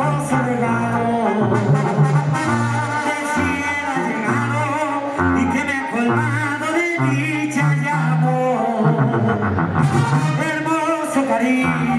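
Mexican banda brass band playing an instrumental passage: trumpets and trombones carry the melody over a low bass line that steps from note to note.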